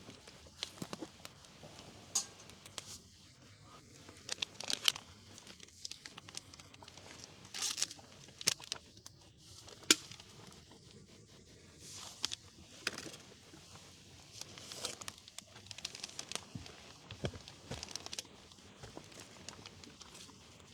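Intermittent crinkling and rustling of wrapping being handled and torn, with scattered sharp clicks.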